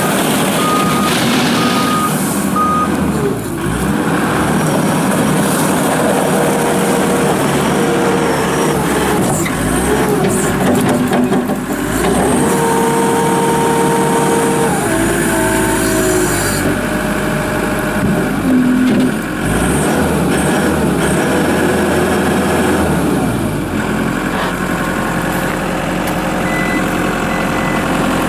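Case SR220 skid steer loader's diesel engine running under working load, its pitch rising, holding and falling as the machine is driven and the hydraulics are worked. A backup alarm beeps steadily near the start, and briefly again near the end.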